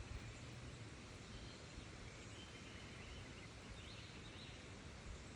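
Faint ambient noise with a few short bird calls.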